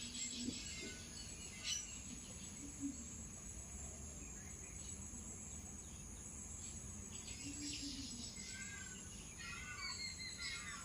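Outdoor ambience: a steady high-pitched drone of insects, with small birds chirping, briefly at the start and again in quick runs near the end.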